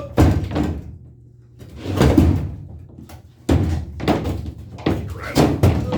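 A sheet of 3/4-inch plywood being worked into a pickup truck bed: a string of wooden knocks and short scrapes, about half a dozen, as it is shoved into place.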